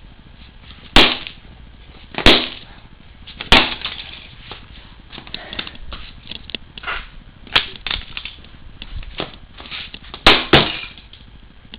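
A toy car being smashed with repeated hard blows: six loud, sharp strikes, three about a second apart, then one after a pause and a quick pair near the end, with lighter knocks and rattles between.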